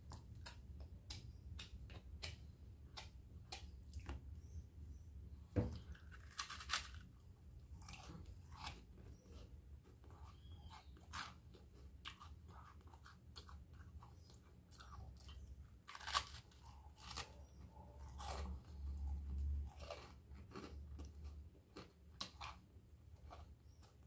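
Close-up chewing of crunchy toast spread with chocolate cream: a run of small crisp crunches and wet mouth sounds, with a few louder crunches along the way, over a low steady hum.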